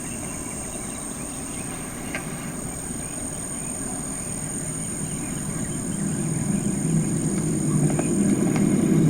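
Low, droning rumble, an unexplained 'strange sound' heard in the sky, swelling louder over the second half. Behind it a steady high insect trill runs on.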